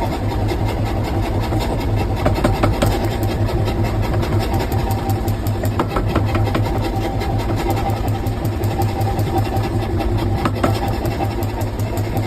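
Steady low machine hum of a forge running during a forge-welding heat of the iron-and-steel axe blank, with a few faint clicks.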